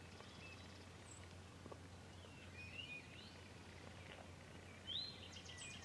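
Faint woodland birdsong: scattered short chirps and a quick trill of repeated notes, the loudest a rising chirp near the end, over a steady low hum.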